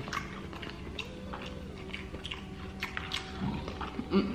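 Close-miked chewing and mouth sounds of people eating, with scattered small clicks and smacks. A faint, long-held hum runs through the middle.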